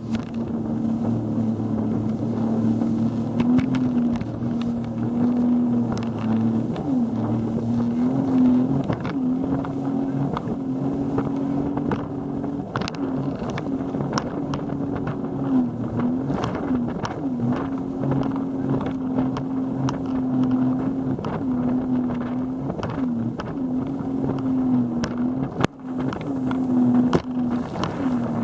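Motorboat engine running at a steady pitch that dips briefly every few seconds, with irregular knocks over it.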